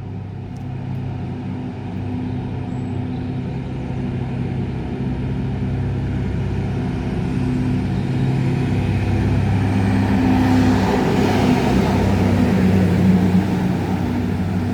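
Diesel engine of a DR75 track tamper running as the machine approaches and passes, its low steady drone growing louder, loudest about two-thirds of the way through with a rush of running noise as it goes by.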